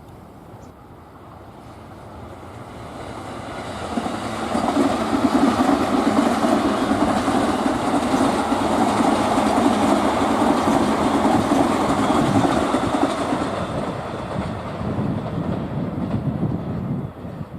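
Freight train hauled by an EH200 electric locomotive passing on the line, its container wagons' wheels clattering over the rail joints. It builds up, is loudest for several seconds in the middle, then eases and cuts off suddenly near the end.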